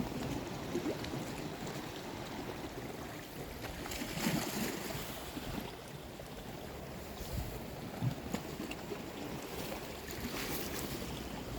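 Sea water washing and lapping at the shore, with wind rumbling on the microphone.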